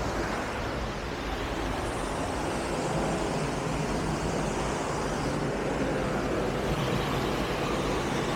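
Waterfall pouring into a rocky pool close by, a steady rushing of water that grows a little louder about three seconds in.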